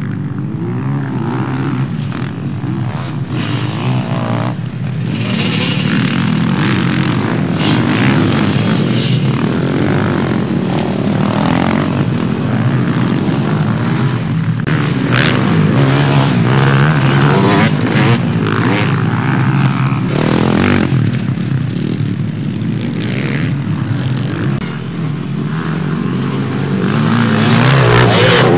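Several motocross motorcycles racing past, their engines revving up and down through gear changes as they accelerate and brake around the track. The engine sound stays loud throughout, swelling as bikes come close near the end.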